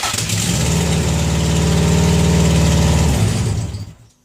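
A 2002 Subaru WRX's junkyard-sourced turbocharged flat-four catches from cranking right at the start and runs steadily for about three seconds on its first start after the swap, then falters and stalls by itself.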